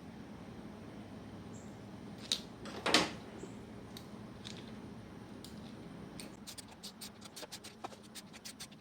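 Ratchet wrench on a car battery terminal clamp nut, clicking in a quick, even run of ratcheting strokes, with a single click and a louder metal knock about two to three seconds in.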